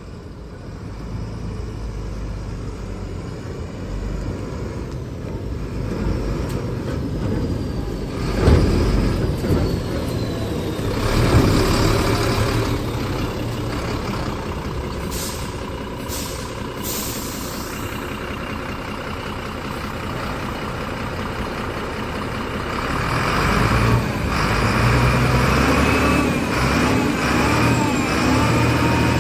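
Diesel engine of a Sinotruk Howo dump truck running, with short bursts of hissing air, the loudest about eight and a half and eleven seconds in. The engine gets louder over the last few seconds.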